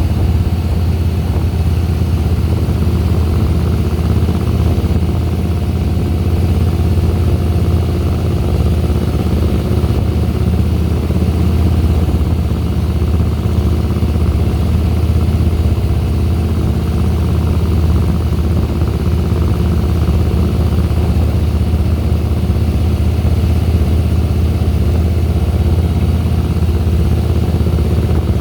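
Harley-Davidson Softail Deluxe's Twin Cam 96 V-twin engine running steadily with a constant low rumble, without revving up or down.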